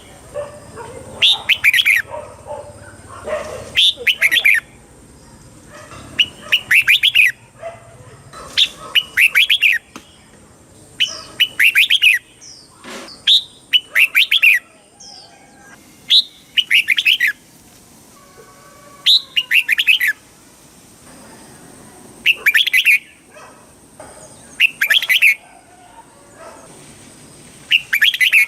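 Red-whiskered bulbul singing: short, bright warbling phrases repeated every second or two with brief pauses between them.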